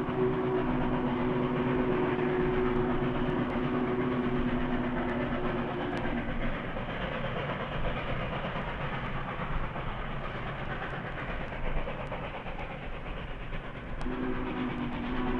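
Steam locomotive chime whistle sounding a long blast of several tones at once, which stops about six seconds in, leaving the noise of the running train. The whistle sounds again near the end.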